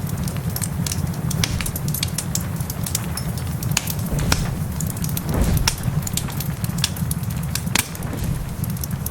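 Wood fire crackling in a fireplace: frequent sharp pops and snaps over a steady low rumble, which swells briefly about five seconds in.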